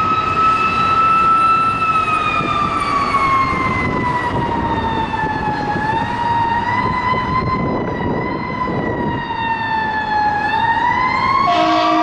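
Fire engine's siren wailing and slowly winding down, then winding back up near the end. Near the end a steady air horn blast joins it, over the truck's road and engine rumble.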